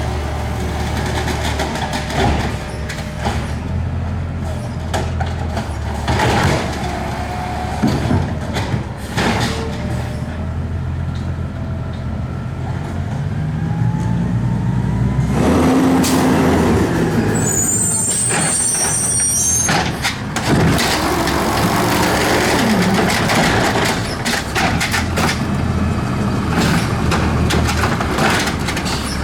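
Garbage truck running up close, its engine humming under repeated clatters and knocks. About halfway through the engine revs up and stays louder, and a short high squeal follows a few seconds later.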